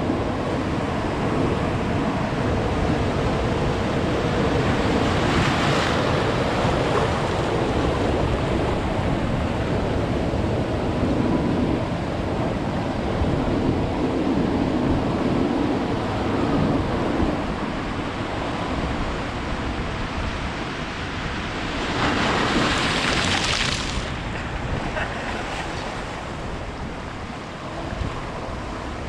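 Ocean surf on a beach: a steady wash of waves, with two louder waves breaking and hissing up the sand, one about five seconds in and one about two-thirds of the way through. Wind on the microphone adds a low rumble.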